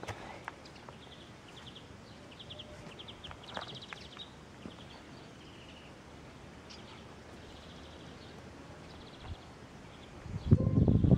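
Small birds chirping in short, fast trills against faint outdoor background noise. Near the end a loud, low rumbling noise comes in and drowns them out.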